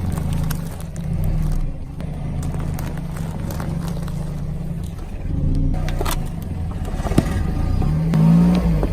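A vehicle engine running low, its pitch rising and falling near the end, with scattered sharp cracks and scrapes over it.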